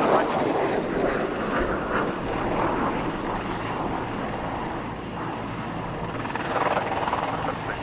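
Aircraft engine noise, loudest at the start, easing off through the middle and swelling again near the end.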